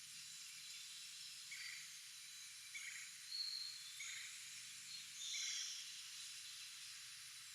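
Wild birds calling outdoors: four short chirps about a second apart, with a brief higher whistle and a sharper high call in between, over a steady background hiss.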